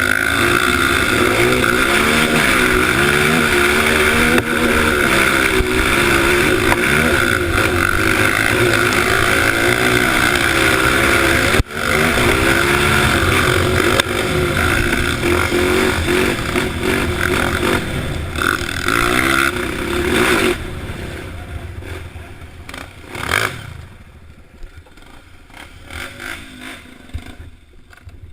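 Honda CRF dirt bike engine running hard, its revs rising and falling with the throttle. About two-thirds of the way through the engine sound drops away, leaving quieter scrapes and knocks.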